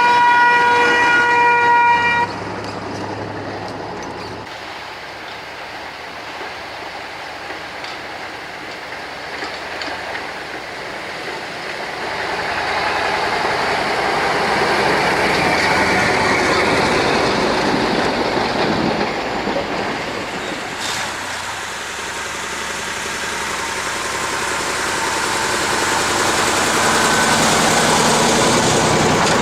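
A vehicle horn sounds once for about two seconds, then the wide rumbling noise of passing traffic swells and fades.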